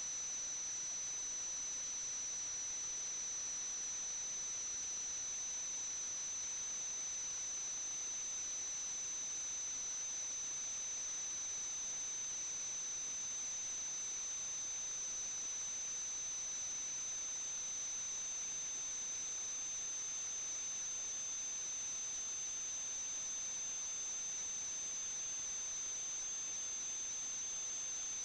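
Steady electronic hiss with a constant high-pitched whine and a fainter second tone just below it, unchanging throughout: electrical noise on the recording's audio track, with no other sound.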